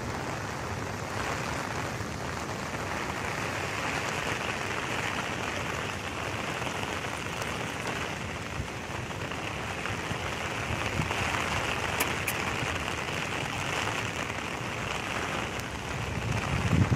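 Steady rain falling on wet stone paving, an even hiss, with two faint ticks about twelve seconds in and a low rumble rising at the very end.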